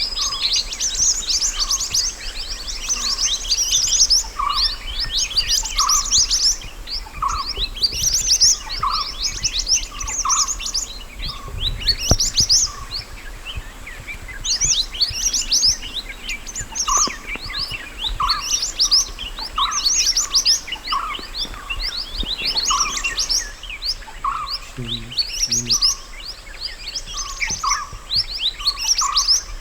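Mountain mantenan birdsong: bursts of rapid, high chirping notes about a second long, repeated without pause, with lower single notes in between.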